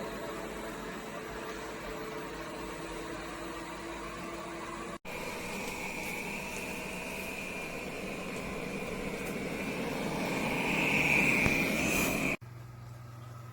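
Airzeen R7 robot vacuum running: a steady motor and suction-fan hum with a high whine that grows louder in the second half, broken by two sudden cuts.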